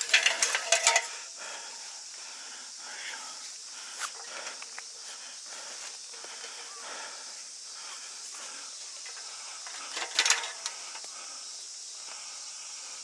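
Hard clattering and knocking of equipment being handled: a burst of rattles in the first second and another about ten seconds in, over a steady high hiss.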